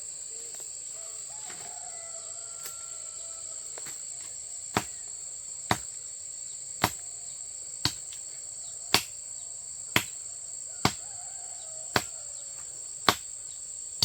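Steady high-pitched chorus of insects. From about five seconds in it is joined by sharp knocks at about one a second, like hammering or chopping.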